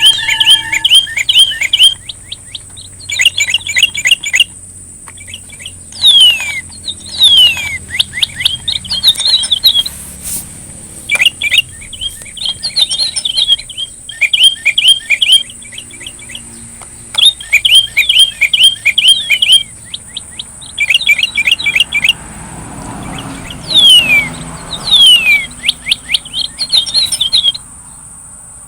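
Songbird of the kind Indonesian bird keepers call "Sri Rejeki" singing in repeated phrases: quick runs of chirping notes broken by short pauses, with now and then a pair of downward-sliding whistles. A steady thin high tone runs behind the song.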